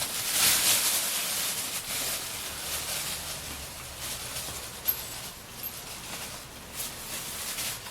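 Rustling hiss of parts being handled, with a few faint clicks.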